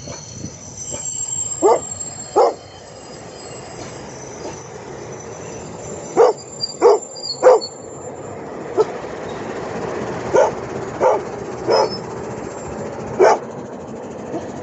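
A dog barking about ten times in irregular groups of two or three, over the steady low running of an ALCO 1600 'Marilyn' diesel locomotive.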